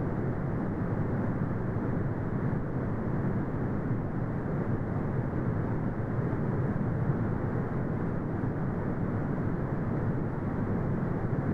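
Brown noise: steady, deep rumbling hiss weighted toward the low end, with nothing above the upper midrange and no changes in level.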